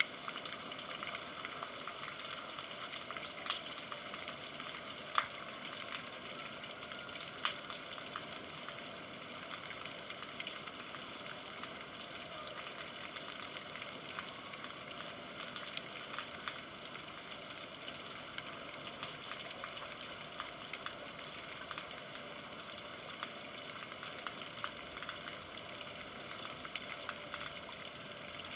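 Steady rain: an even hiss with many scattered drop clicks, a few louder single drops or drips standing out in the first several seconds.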